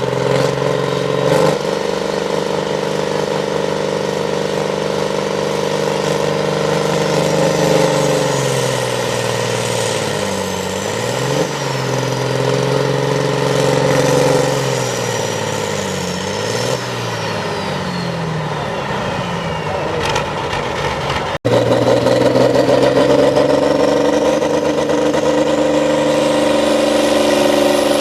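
A competition pulling tractor's engine running hard. Its pitch sags and recovers twice around the middle. After a momentary dropout about two-thirds of the way through, it runs louder with a thin high whine rising steadily in pitch.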